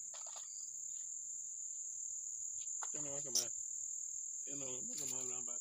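Crickets trilling steadily in one continuous high tone, with a man's voice speaking briefly twice and a sharp click about three and a half seconds in.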